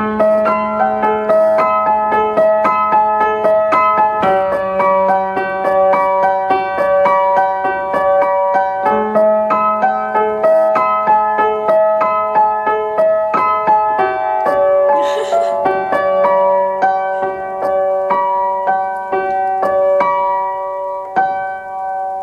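Piano playing a steady run of repeated notes under a melody, with a brief hiss of noise about two-thirds through. The playing thins out near the end, leaving the last notes ringing.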